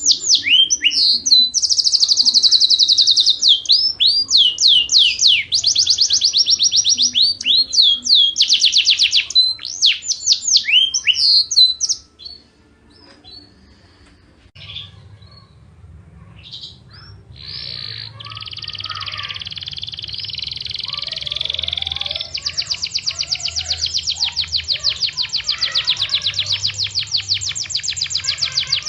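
Songbird song as used for a 'tembakan' training track: quick, loud, repeated sweeping high notes and trills for about twelve seconds, a pause of about five seconds, then a long, very fast rattling trill that builds and speeds up about five seconds later.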